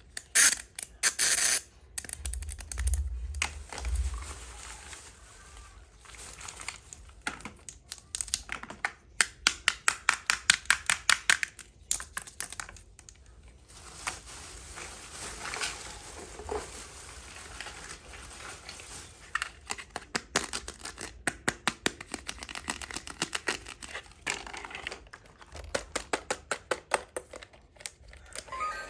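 Small plastic toy pieces being handled and set down: runs of quick clicks and taps, with some crinkling and scratching of packaging.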